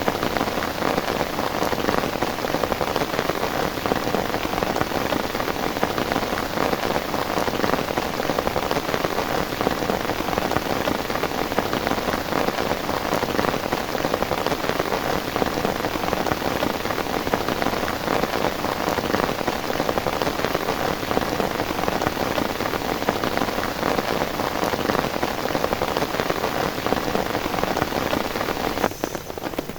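Heavy rain falling steadily: a dense, even patter of drops that dips a little just before the end.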